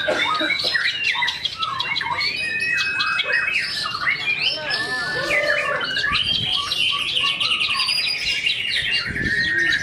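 White-rumped shama (murai batu) singing without pause: a fast, varied stream of whistles, pitch glides and rattling runs of repeated notes, delivering its learned mimicry phrases (isian).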